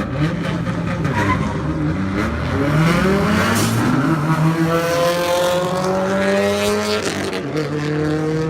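Two drag cars accelerating hard down the strip, their engines rising in pitch through the gears. There is a gear change about seven seconds in, after which the pitch climbs again.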